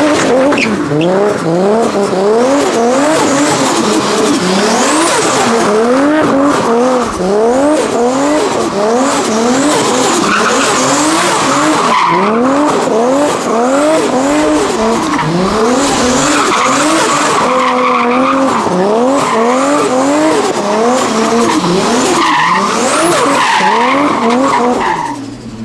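A car doing donuts on tarmac: the engine revs up and drops back over and over, about once a second, while the rear tyres spin and squeal. The revving and squeal stop suddenly near the end.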